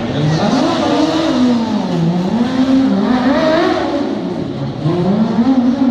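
Racing lawnmower's Honda CBR600 inline-four motorcycle engine revving up and backing off repeatedly as it is driven hard, the pitch climbing and falling several times.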